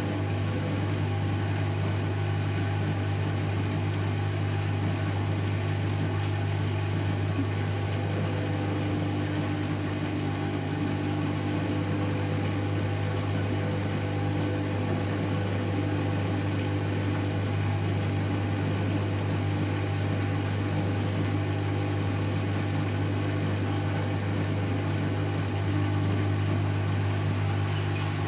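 Servis Automatic M3008B washing machine in its final spin at 800 rpm, with the motor and drum running at a steady speed and giving a constant, even hum.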